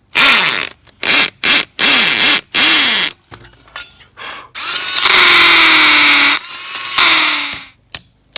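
Power drill run in five short bursts, each spinning up and winding down, then held for one longer run of about three seconds whose pitch sags under load, as when driving a fastener. A couple of sharp clicks come near the end.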